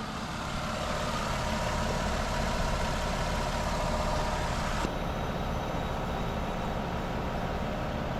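Car engine idling with the air-conditioning blower pushing cold air, a steady rush of air over a low engine hum. About five seconds in the airy hiss drops off abruptly and the engine hum carries on.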